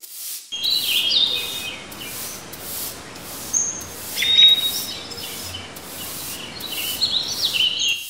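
Small birds chirping, with short rising and falling whistles, over a steady hiss and regular scratchy pulses about three a second.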